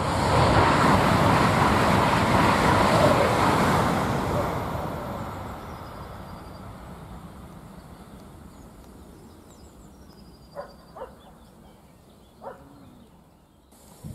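High-speed electric train passing at speed, a loud rush of wheels and air for the first few seconds that then fades steadily as it moves away. Near the end come three short bird chirps.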